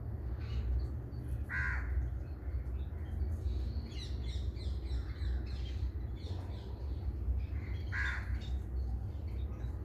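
Two harsh, cawing bird calls about six seconds apart, with a stretch of quick, high chirping from small birds in between. A steady low rumble runs underneath.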